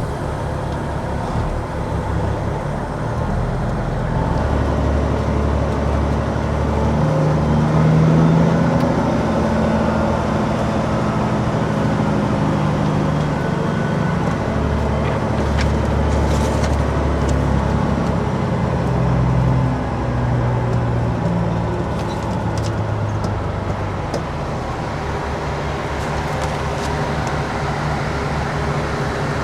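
Peterbilt 379 truck's diesel engine running as the truck drives, its note rising and falling a few times.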